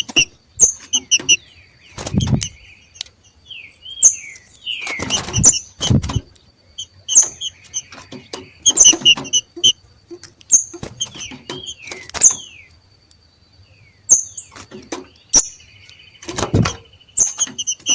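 Two green-winged saltators (trinca-ferro) macheando: bursts of short, sharp, squeaky chirps with a few quick sliding whistled notes, repeating every second or so. A few loud low thumps come among them, around two seconds in, twice near the middle and once near the end.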